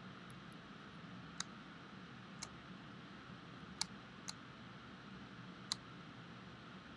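Computer mouse clicking: about five sharp single clicks at uneven intervals over a faint steady room hum.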